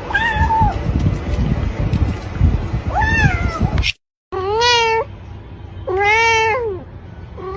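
Cat meowing: two short, higher meows over background noise, then, after a brief break, two longer, louder, lower meows about a second apart.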